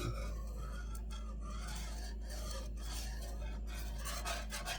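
A steady low hum with an even rasping noise over it; the hum cuts off near the end.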